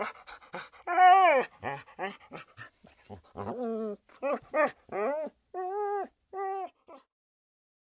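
A dog whimpering and yipping: a quick run of short, high whines, many sliding down in pitch, that stops a little before the end.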